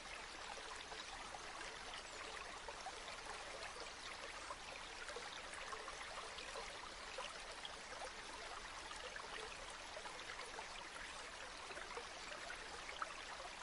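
River water flowing steadily, a faint even rush with small trickling splashes throughout.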